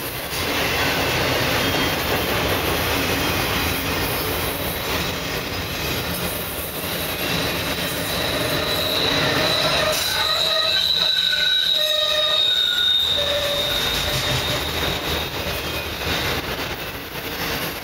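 Loaded autorack freight cars rolling past on steel wheels. From about the middle, wheels squeal against the rail: one high squeal held for several seconds, with shorter squeals at lower pitches alongside it.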